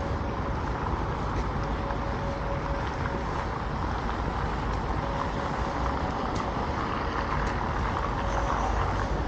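Street traffic: a steady rush of passing cars and trucks, with a faint steady engine hum that comes and goes.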